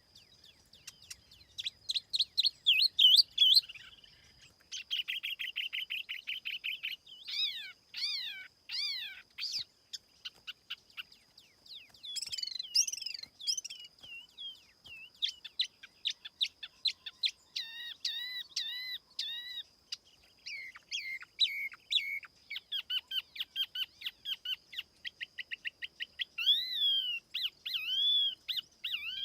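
Song of a tiểu mi songbird: quick runs of sharp chirps and clear whistled notes that rise and fall, repeated phrase after phrase, with a faint steady high tone behind.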